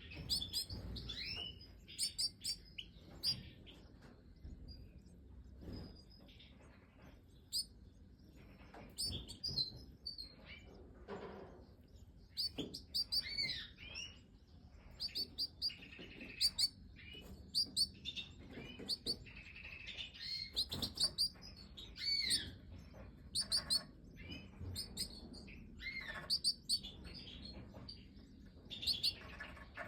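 Major goldfinches chirping and calling: short, sharp notes in quick clusters, some sliding up or down in pitch, coming irregularly throughout.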